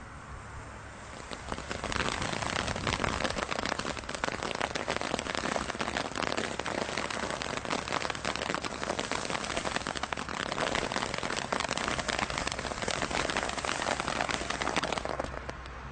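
A firework giving off a dense, continuous crackle of many tiny pops, starting about a second and a half in and cutting off near the end.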